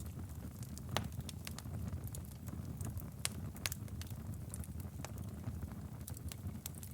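Wood fire crackling in a fireplace: irregular sharp pops and snaps over a steady low rumble of the burning fire, with a louder pop about a second in.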